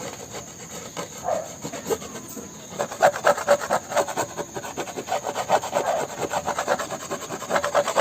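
A hacksaw blade scraped back and forth over super-glued cloth on a plastic motorcycle fairing to press it into the glue. The scraping is lighter at first and becomes a fast, steady run of strokes from about three seconds in.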